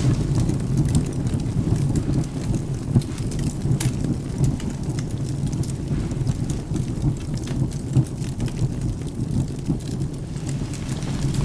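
Rain and low rolling thunder making a continuous deep rumble, with sharp pops and crackles of burning firewood scattered through it.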